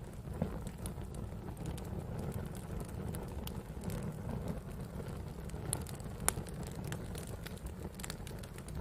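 Wood campfire burning with a steady low rumble and scattered crackles and pops, the sharpest pop about six seconds in.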